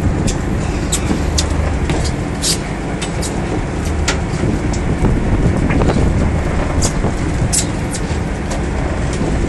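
Fishing boat's engine running steadily under way, a low continuous rumble, with irregular sharp knocks and slaps from the hull meeting the water.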